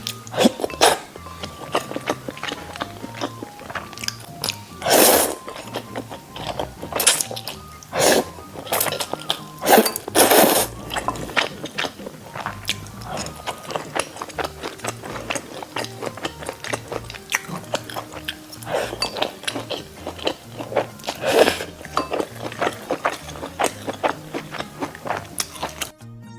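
Background music with close-up eating sounds: crunchy bites, chewing and light clicks, with a few louder bites now and then.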